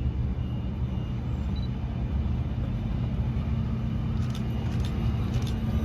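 Electric passenger train running with a steady low rumble and a constant hum; a few sharp clicks come near the end.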